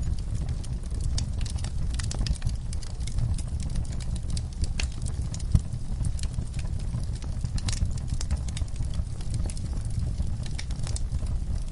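Fireplace fire crackling: a dense, irregular run of sharp pops and snaps over a steady low rumble of the flames, with one louder pop about halfway through.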